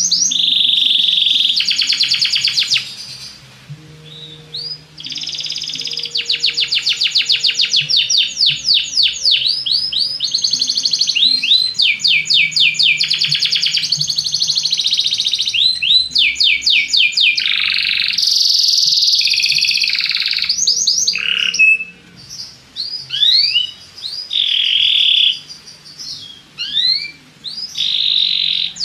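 Belgian canary singing: long runs of fast trills and rapidly repeated notes. There is a short lull about three seconds in, and the last several seconds break into short rising chirps.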